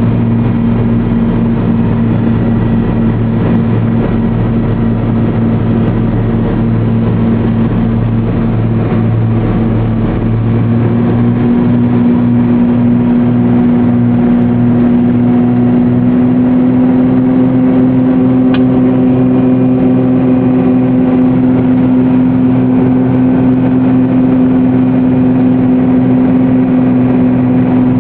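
Twin piston engines and propellers of a Cessna twin-engine aircraft droning steadily, heard from inside the cabin, the pitch rising slightly partway through.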